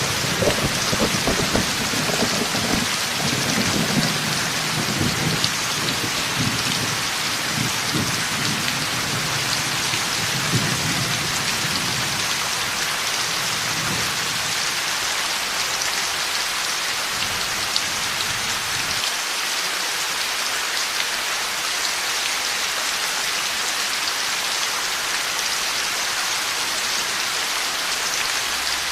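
Heavy rain falling steadily, with a long low rumble of thunder underneath that fades away about two-thirds of the way through, leaving only the rain.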